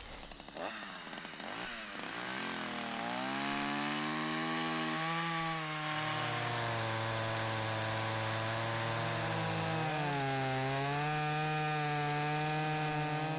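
Chainsaw engine revving up with rising and falling pitch, then running steadily at high speed, its pitch dropping and rising again twice.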